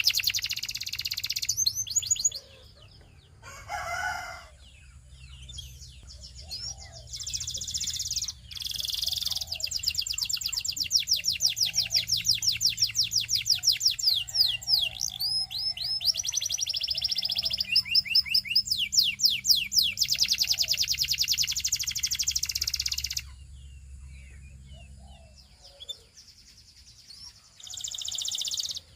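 Canary singing: long rolling trills of rapidly repeated high notes, broken by a short pause and later a longer lull before the song resumes near the end.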